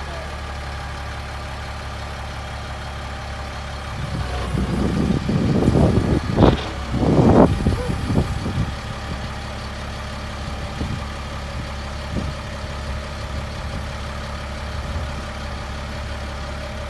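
A 2000 Freightliner FL70 bucket truck's engine idling steadily. A louder stretch of other sound rises over it in the middle, from about four to eight seconds in.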